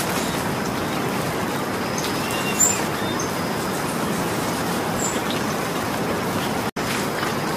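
Steady rain falling, an even hiss of drops, with a few faint high chirps over it. The sound cuts out for an instant near the end.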